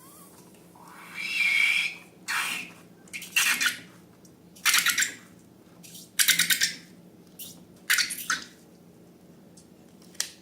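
Slime and balloon handling sounds: about seven short, crackly squelching bursts a second or so apart, with quiet gaps between them.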